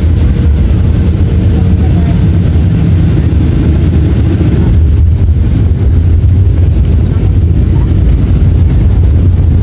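Steady low rumble of engine and airflow noise inside the cabin of a Boeing 737-500 airliner.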